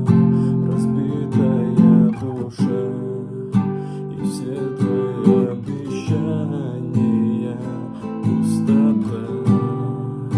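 Acoustic guitar strumming chords in a steady rhythm, an instrumental passage of a song with no voice.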